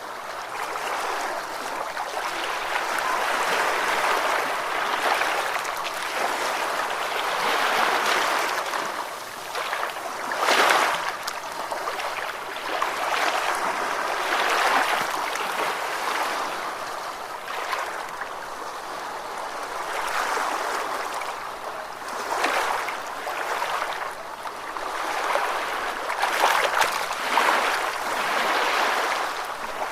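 Ocean waves washing in and drawing back, the steady rush swelling and easing every few seconds, with a sharper wave breaking about ten seconds in and a few more near the end.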